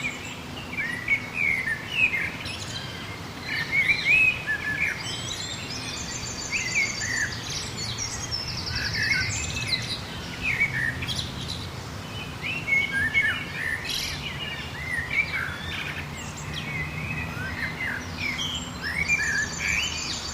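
A chorus of many songbirds chirping and twittering, with short quick notes overlapping throughout and a few high, buzzy trills.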